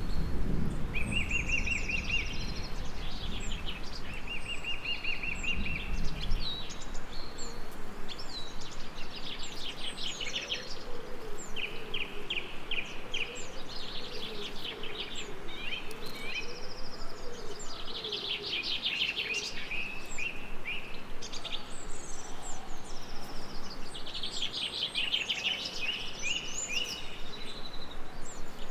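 Several songbirds singing, their calls overlapping, including short even trills a few seconds in. A low rumble of distant thunder dies away over the first six seconds, and a faint bee-like buzz drones through the middle.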